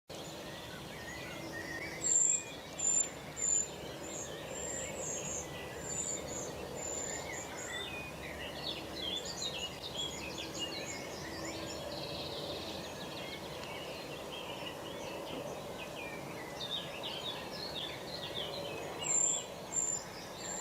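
Small birds chirping and trilling over a steady background hiss. The loudest sounds are short, high, thin peeps, a run of them about two seconds in and another near the end.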